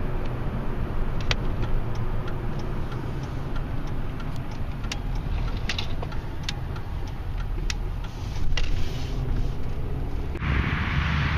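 Steady low rumble of road traffic, with scattered sharp clicks. About ten seconds in, a louder hiss suddenly sets in.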